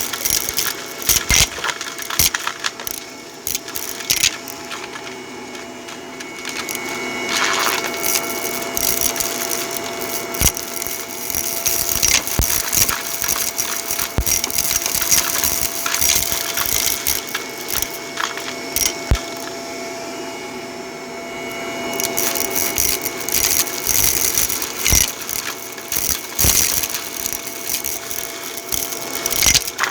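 Dense crunching and crackling with many sharp clicks, over a faint steady hum.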